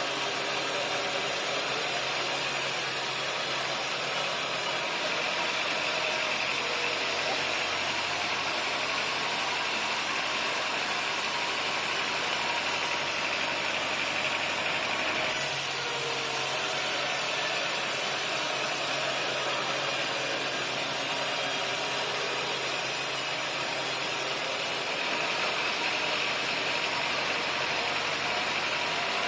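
Sawmill machinery engine running steadily at a constant speed, with an abrupt change in the sound about halfway through.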